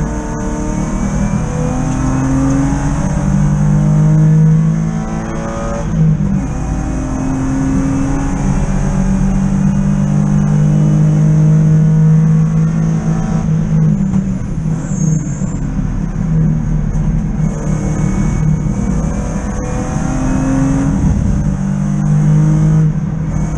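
BMW E36 323i race car's straight-six engine under hard acceleration, heard from inside the cabin, its revs climbing and dropping as it shifts through the gears.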